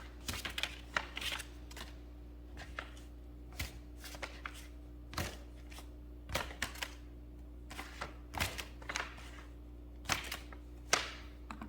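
A sheet of origami paper being folded and creased by hand: irregular crinkles, rustles and small scrapes of paper, a few every second.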